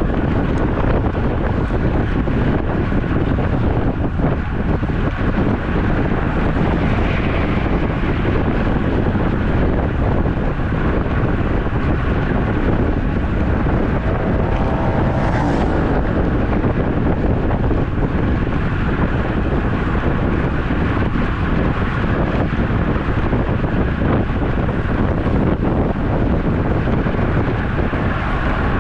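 Steady wind noise buffeting the microphone of a camera carried on a road bike while riding.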